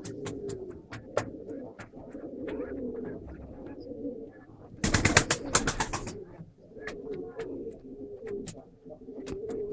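Pigeons cooing in repeated low warbling calls, with scattered sharp clicks. About five seconds in there is a loud rustling burst lasting about a second.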